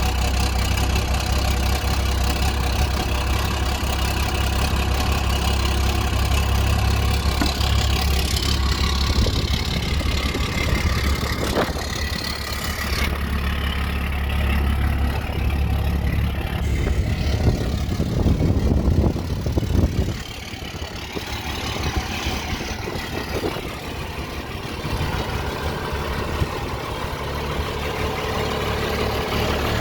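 Dodge 12-valve Cummins inline-six diesel idling after a cold start, a steady low rumble. The deep low end weakens about two-thirds of the way through.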